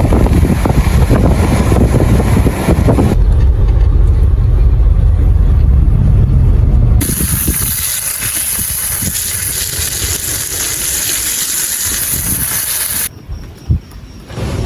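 Strong coastal wind buffeting the microphone over breaking surf, in several cut-together takes. Heavy rumbling gusts for the first half are followed by a long hissing wash, then a quieter stretch with a single thump near the end.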